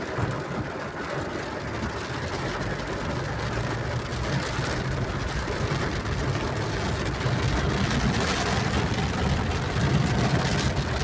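A vehicle's engine running steadily under a continuous hiss of rain, heard from a vehicle travelling in a downpour.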